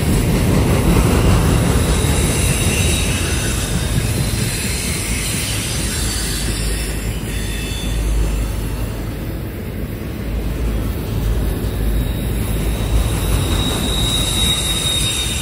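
Loaded autorack freight cars rolling past: a steady rumble of steel wheels on rail, with a faint high squeal near the end.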